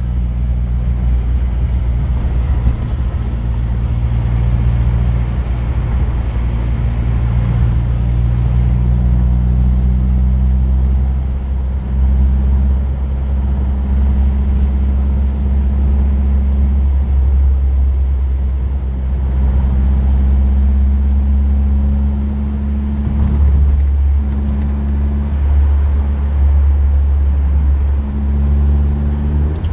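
Car engine and road noise heard from inside a classic car cruising along, the engine droning steadily with small shifts in pitch as the speed changes.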